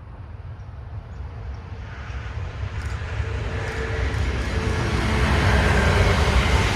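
Brightline high-speed passenger train approaching at speed. Its rumble and rush grow steadily louder, and a steady whine joins in about halfway through.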